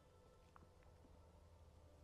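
Near silence: low room tone with a steady faint hum and a tiny click about half a second in.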